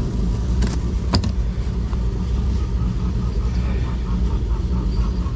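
Belt-driven rock tumbler running with a steady low motor hum, with one sharp click about a second in.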